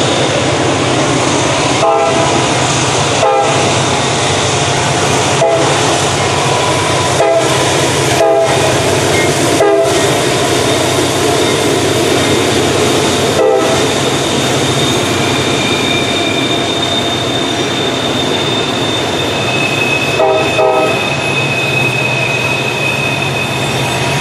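Freight train passing close by, led by a GE AC44C6M diesel locomotive: the locomotives' engines run under heavy load, then the loaded waste container cars roll past. Several sharp clanks come from the wheels and couplers, and a thin steady wheel squeal from the curve sets in about halfway through.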